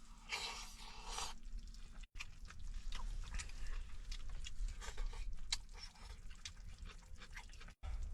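Close-up chewing and crunching of food, with many small irregular clicks, and a short hiss about half a second in.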